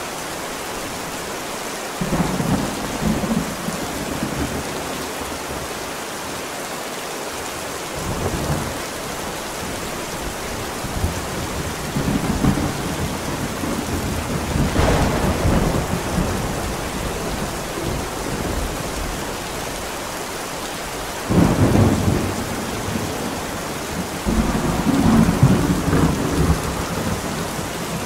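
Steady heavy rain with thunder rumbling again and again over it, several long low rolls that swell and fade, the sharpest crack about three quarters of the way through.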